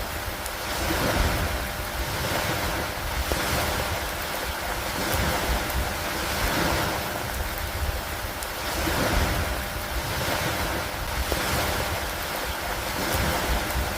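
Steady rushing of rain and wind over lake water, swelling and easing about every two seconds like waves washing in, over a constant low rumble.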